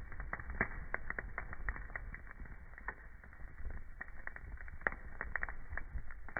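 Wood fire burning in a fireplace: a steady low rumble with irregular sharp crackles and pops from the burning logs, a louder pop near the end.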